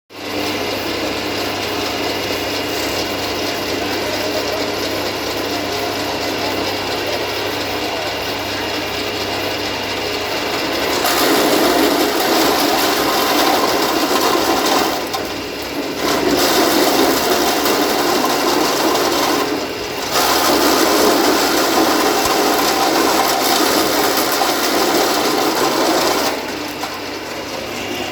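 Chaff cutter machine running steadily, its rotating cutter making a continuous mechanical whirr. After about eleven seconds it grows louder in three long stretches, with brief dips between them, and it eases off again near the end.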